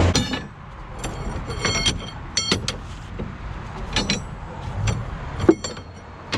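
A series of short metallic clinks and knocks at irregular intervals, several of them ringing briefly, over a low background rumble.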